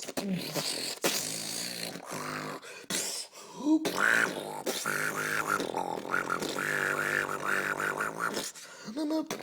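Vocal beatboxing imitating dubstep: a buzzing, pitched bass line pulsing in a fast wobble, broken by sharp mouth clicks.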